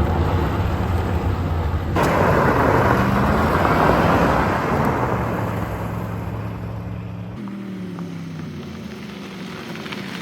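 Chevy pickup truck being driven, heard from the cab: its engine hums with shifting pitch under a loud rush of road and wind noise. The low rumble drops away suddenly about seven seconds in, leaving a fainter engine note falling in pitch.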